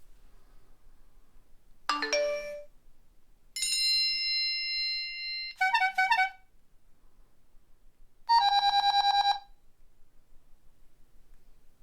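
A series of separate electronic phone alert and ring tones. First comes a quick run of chime notes about two seconds in, then a held electronic tone lasting about two seconds, then a few quick beeps, and last a rapid trilling ring of about a second.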